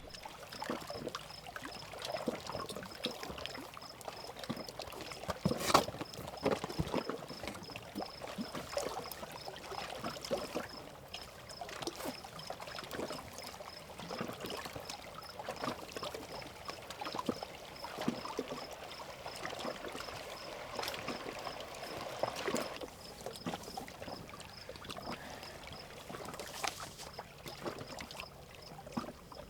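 Water splashing and lapping irregularly as a person moves about in it, with one louder splash about six seconds in.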